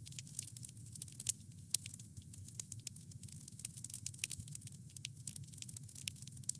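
Wood fire crackling, with many small sharp pops coming irregularly and a few louder ones, over a low steady rumble.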